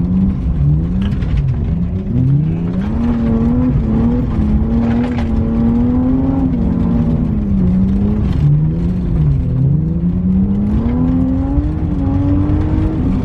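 BMW E36 drift car engine revving up and down over and over, its pitch climbing and dropping every second or two under on-off throttle while drifting on gravel, with a steady rush of noise beneath it.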